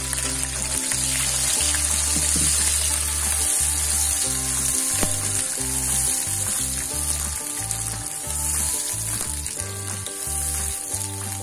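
Chilli paste sizzling and frying steadily in a wok of hot oil, as the sambal begins to cook.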